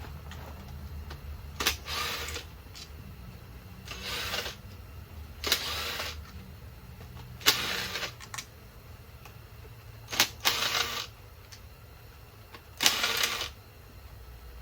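Hand ratchet wrench clicking in about six short bursts, each starting with a sharp click, as bolts are backed out.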